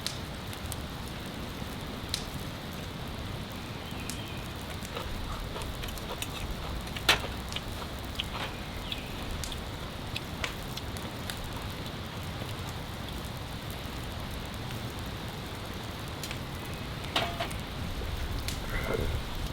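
Steady heavy rain falling, with scattered drips and taps, the sharpest about seven seconds in and a few more near the end.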